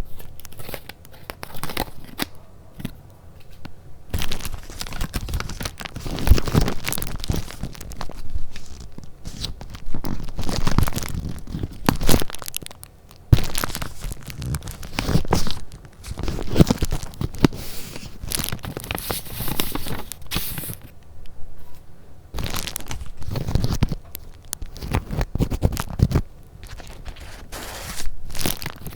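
Paper and craft papers handled close to the microphone: irregular crinkling and rustling in bursts, with sharper tearing-like rips among them.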